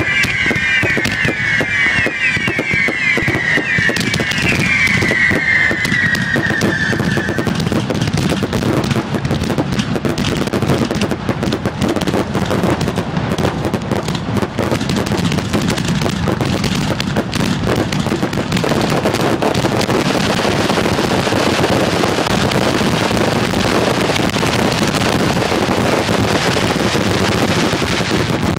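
Fireworks finale: a dense, rapid barrage of bangs and crackling bursts from aerial shells. For the first several seconds, overlapping shrill whistles fall in pitch. In the last third the bursts merge into a thicker, continuous crackle.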